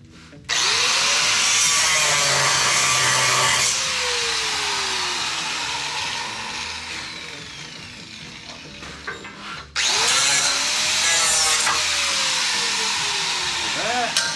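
Angle grinder with a cut-off disc cutting into steel of an old truck frame, in two runs. Each time it whines up to speed and screeches for a couple of seconds, then winds down with a falling whine. It starts up briefly once more near the end.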